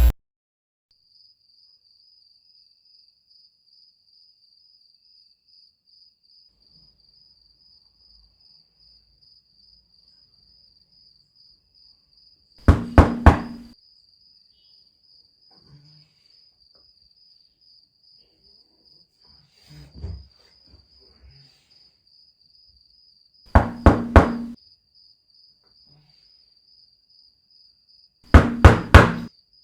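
Three bursts of loud knocking, each a quick run of three or four knocks, against a faint steady chirping of crickets. A few faint thumps fall between the second and third burst.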